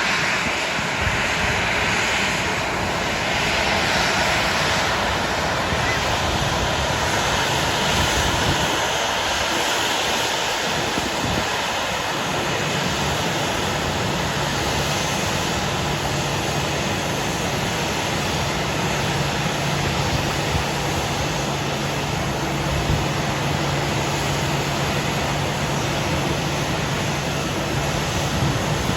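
Boeing 737's jet engines running at idle as the airliner taxis in to the gate: a steady, loud rushing noise. A low steady hum joins in about halfway through.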